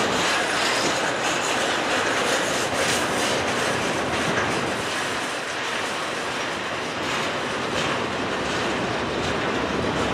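Freight cars, boxcars and tank cars, rolling past close by: a steady rumble and rattle of steel wheels on the rails, with repeated clicks as the wheels pass over rail joints.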